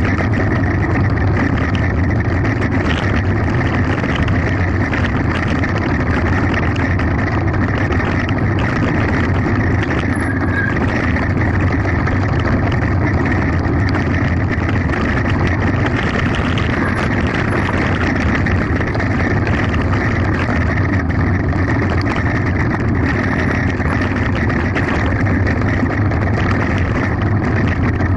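Mountain bike descending at speed on a gravel forest road: steady, loud wind rush over the microphone mixed with tyre noise on gravel.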